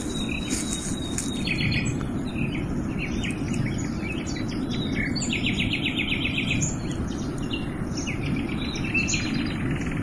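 Wild songbirds singing in chirps and trills, with one fast, even trill lasting over a second about halfway through, over a steady low rushing noise.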